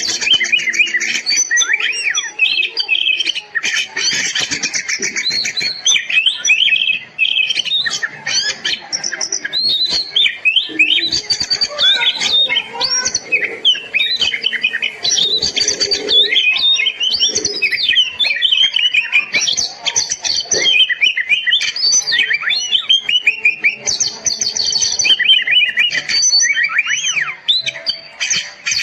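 Oriental magpie-robin (kacer) singing non-stop: a fast, varied stream of whistles, rising and falling notes and trills, with hardly a break.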